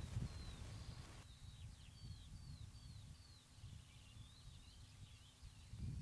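Faint outdoor birdsong: a run of short falling chirps, then quicker twittering, over a low, gusty rumble.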